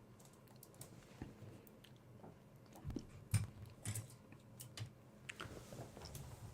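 Soft, scattered clicks and taps of small objects being handled close to the microphone, with sharper clicks about three and four seconds in.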